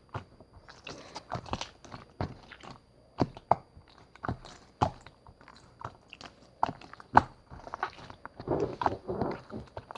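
Slime being squeezed and pressed by hand, making irregular sticky pops and clicks, with a denser run of squelching near the end.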